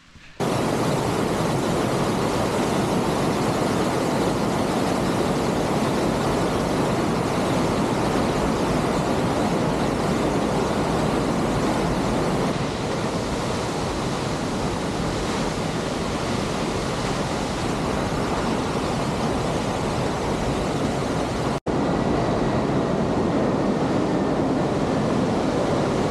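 Waterfall rushing: a loud, steady wash of falling water. The sound shifts slightly about halfway through and breaks off for an instant a few seconds before the end, then carries on.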